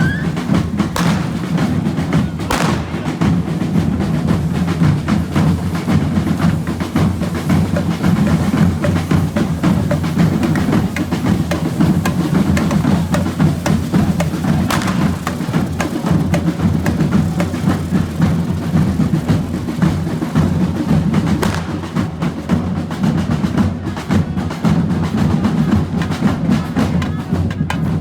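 A drum band playing a fast, continuous rhythm, with a few sharp firework bangs cutting through: one about two and a half seconds in and another around the middle.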